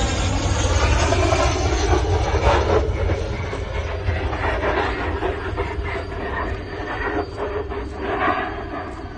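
Su-25 jet making a gear-up landing, sliding on its belly along the runway: metal scraping and grinding against the surface over a low rumble, in uneven surges.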